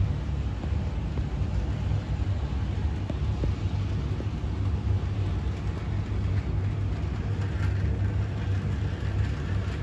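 Bachmann HO-scale model locomotive running steadily around the track, a continuous low motor-and-wheel rumble.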